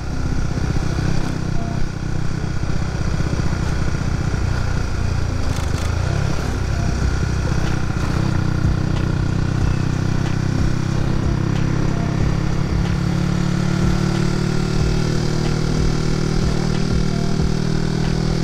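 Honda Winner X's 150 cc single-cylinder engine running while the motorcycle is ridden along. The engine note dips briefly about five seconds in, then climbs slowly.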